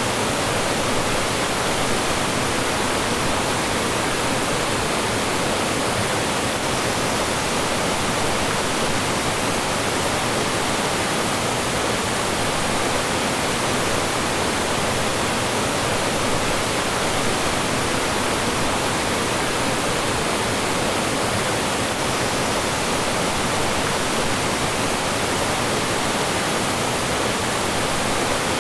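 Mountain stream rushing over rocks and small falls: a steady, unbroken roar of flowing and falling water.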